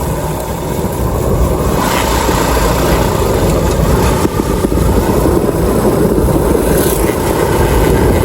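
Motorcycle on the move: wind rushing over the microphone, with the engine running underneath. It cuts off suddenly near the end.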